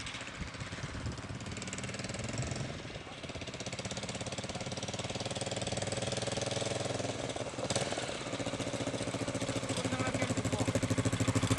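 Motorcycle engine running at a steady, regular beat, growing louder toward the end.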